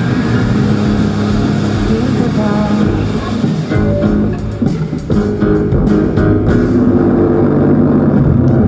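Rock band playing an instrumental passage with guitars and bass guitar, with cymbal-like hits through the middle.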